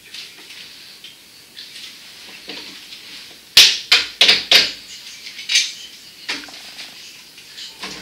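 A quick run of sharp clatters and knocks from hard objects being handled, bunched a little before halfway, with a few fainter knocks after.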